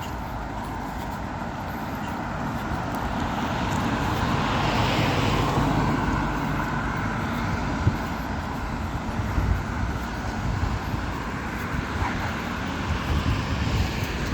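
Road traffic: a car passing, its noise swelling to a peak about five seconds in and then fading away.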